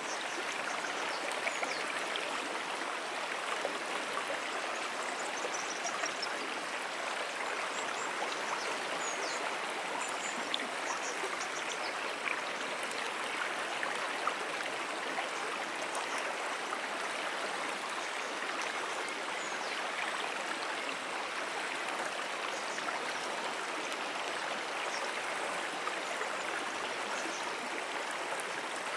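Moonan Brook, a freshwater stream, running steadily, with a continuous, even rush of water over the streambed.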